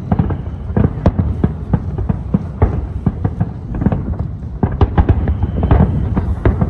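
Aerial fireworks bursting in quick, irregular succession, several sharp bangs a second over a continuous low rumble of shells.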